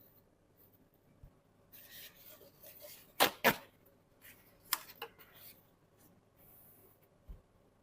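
Small handling noises in a quiet room: a brief rustle, then two sharp clicks close together, two fainter clicks a second later, and a soft low thump near the end.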